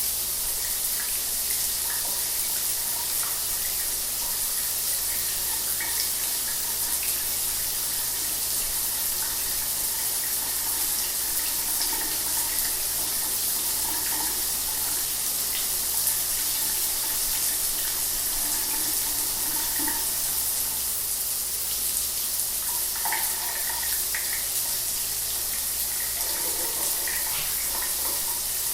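Shower running steadily, water spraying and splashing, with small irregular splashes breaking the even hiss.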